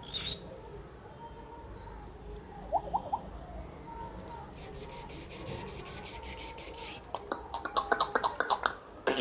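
Cockatiel calls: a few short rising chirps, then a couple of seconds of fast rhythmic rasping, then a quick run of short chirps near the end.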